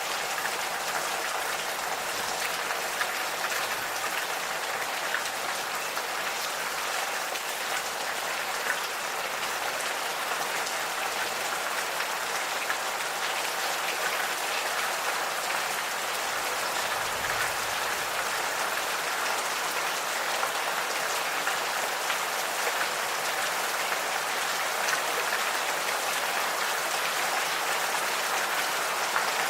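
Gentle rain falling steadily, a dense even hiss of many small drop ticks.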